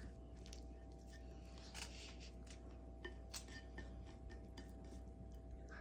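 Chopsticks clicking faintly against a bowl while stirring a thick mush, a few light scattered taps over a low steady hum.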